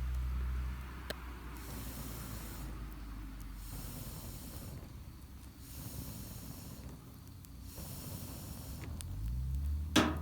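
Wood campfire burning with a steady hiss and scattered crackles, and a sharp pop about ten seconds in. A low hum fades out about a second in and comes back near the end.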